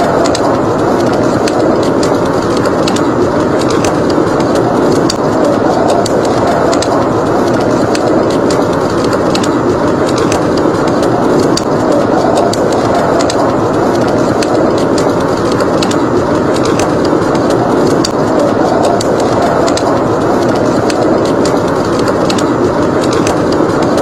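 Steady blizzard wind blowing without a break, with a wood fire crackling in a fireplace: small sharp pops scattered irregularly over the wind.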